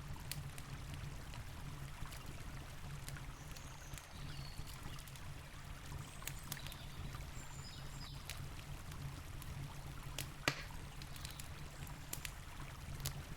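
Campfire crackling with scattered sharp pops, the loudest pop about ten and a half seconds in, over the steady low rush of a river.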